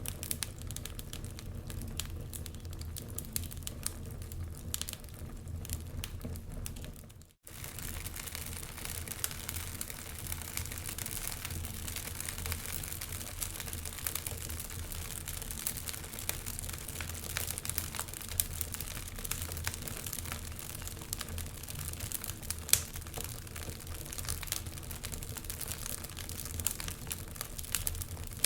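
Log fire in a fireplace crackling and popping continuously over a low rumble of burning, with one sharper pop about two-thirds of the way through. The sound cuts out for a split second about a quarter of the way in, then resumes.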